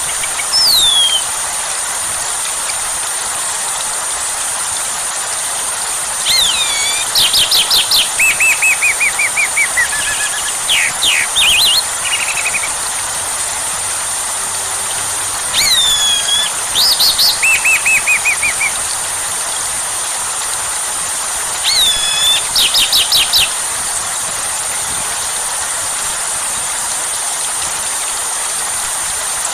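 Steady hiss of rain with a songbird singing over it: several separate phrases of quick repeated notes and downslurred whistles, a few seconds apart.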